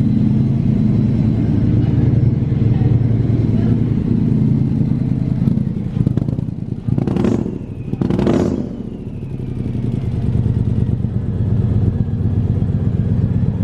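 Car engines idling steadily, with two vehicles driving close past about seven and eight and a half seconds in, each a brief whoosh with a falling tone.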